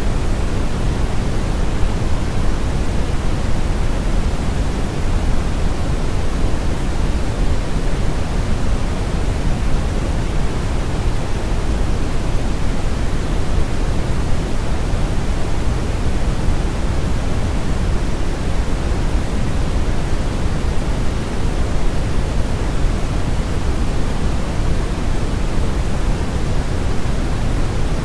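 Steady brown noise: an even, unbroken hiss with most of its energy in the deep low end and the highs rolled off, giving a rumbling sound like a strong river current or wind.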